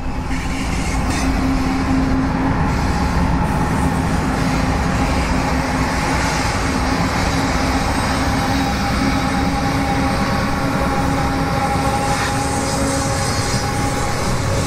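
A BNSF double-stack intermodal train passing close by, its lead diesel-electric locomotives running with a steady drone and a few held tones over the rumble of the train.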